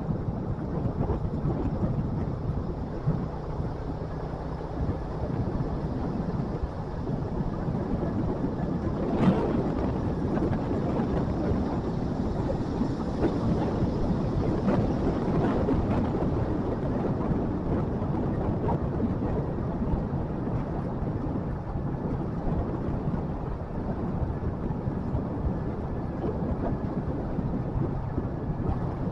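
A motorcycle being ridden: a steady rumble of engine and road noise under wind buffeting on the microphone. There is one sharp knock about nine seconds in.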